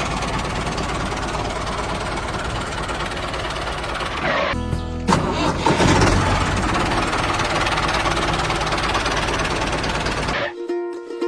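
Loud steady engine-like running noise with a strong low rumble, dropping out briefly about four and a half seconds in and cutting off near the end, over background music.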